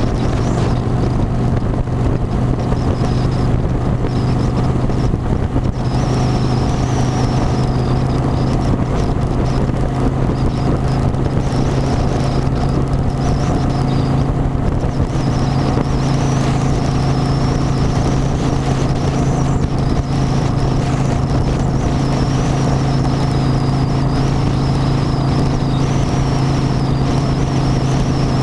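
Motorcycle engine running steadily at an even speed, a constant hum that holds one pitch with no revving or gear changes.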